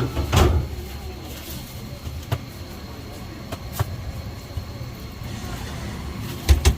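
Steady low rumble of passing road traffic, with a few short knocks and clatters, louder near the end.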